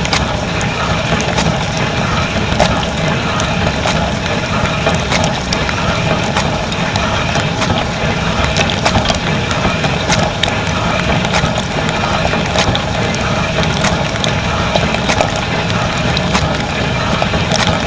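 Dishwasher running its wash cycle, heard from inside the tub: a steady rush of spraying water with frequent sharp ticks and clatters.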